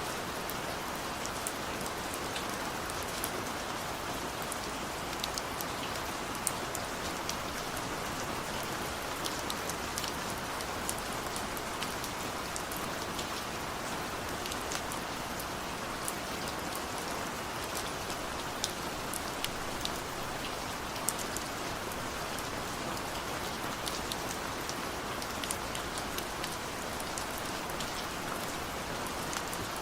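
Heavy rain falling steadily, a constant even hiss with many sharp individual drop splats scattered throughout.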